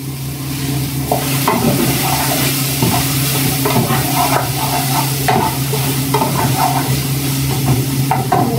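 Carrots, tomato, onion and garlic sizzling in oil in an aluminium pot while a wooden spatula stirs and scrapes them, with a few light knocks of the spatula against the pot. The sizzle grows louder about a second in, over a steady low hum.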